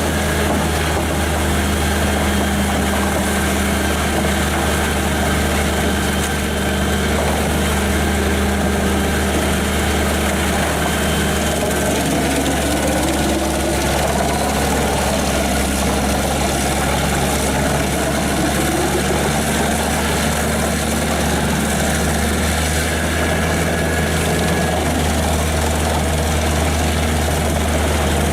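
Caterpillar C9 diesel engine of a Pezzolato PTH 1200/660 M wood chipper running steadily with a low, even hum and a broad mechanical noise over it; a few wavering tones come and go around the middle.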